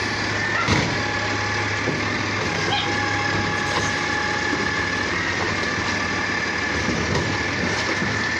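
Garbage truck's engine running steadily, with a steady high whine over it and a single knock under a second in.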